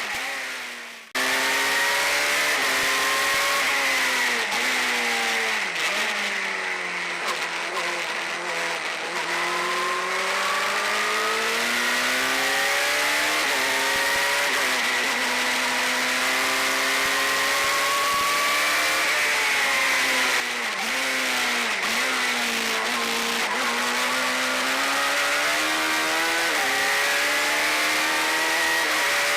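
Suzuki Hayabusa inline-four motorcycle engine in a single-seater race car at full racing revs, climbing in pitch through the gears and dropping on downshifts into corners. The sound dips briefly and comes back suddenly about a second in.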